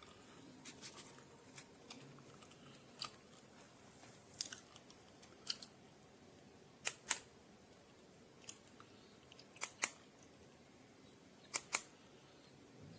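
Faint steady room background with scattered light clicks, several coming in quick pairs.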